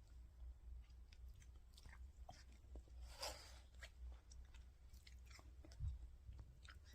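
Faint crunching and nibbling clicks of a cockatiel's beak working on food, with a louder crunch about three seconds in and a dull bump near the end.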